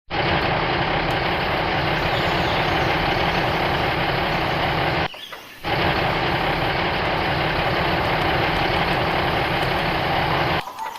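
Small engine of a DIY mini tractor running steadily. The sound breaks off abruptly for about half a second around five seconds in and again just before the end.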